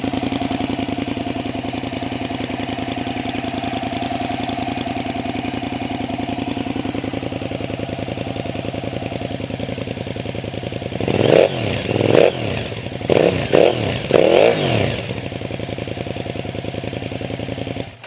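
KTM 950 Super Enduro's V-twin, through an aftermarket Remus exhaust, idling steadily, then blipped four or five times in quick succession about eleven seconds in, each rev rising and falling back, before settling to idle again.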